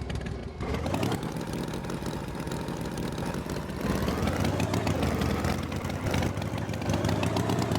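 Tractor engine running, its pitch rising a little under a second in and then wavering up and down.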